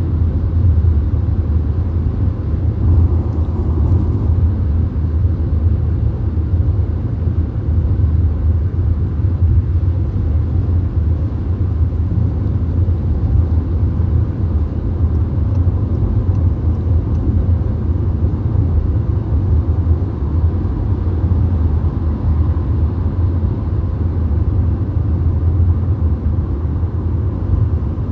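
Steady low road rumble inside a VW Golf cruising at highway speed.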